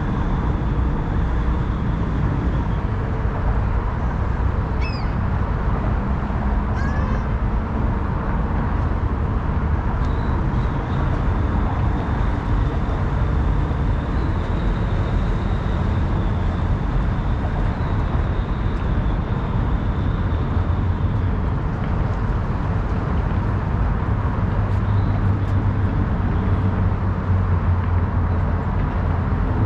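Steady road-traffic rumble of city ambience, with two short bird calls about five and seven seconds in and a thin high tone that comes and goes.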